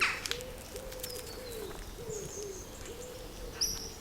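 A pigeon cooing: a run of low soft notes, each sliding up and then down, stopping a little after three seconds in. Small birds' high chirps sound over it.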